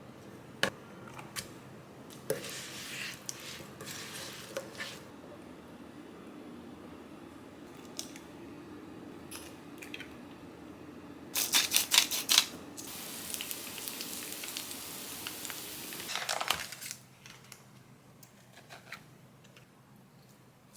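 Kitchen handling sounds: scattered clicks and light clatter, a quick run of sharp rattling clicks about eleven seconds in, then a steady hiss for a few seconds that stops sharply.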